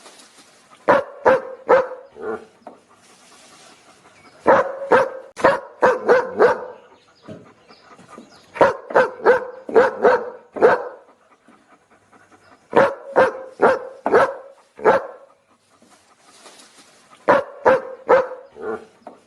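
A dog barking in quick runs of four to seven barks, a new run starting every four seconds or so, with short quiet gaps between runs.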